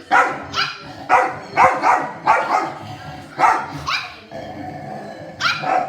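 Dog barking in a rapid series of sharp barks, roughly two a second, with growling in between. After about four seconds there is a short lull, then two more barks near the end.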